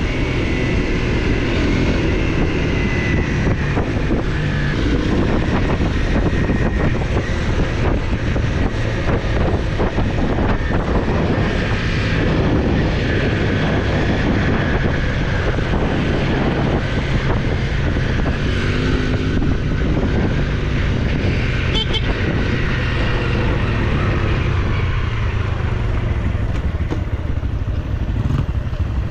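Off-road motorcycle engine running steadily while being ridden.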